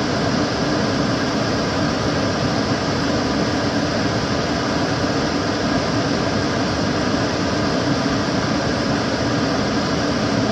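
Kitchen cooker hood extractor fan running steadily: an even rush of air with a low hum underneath.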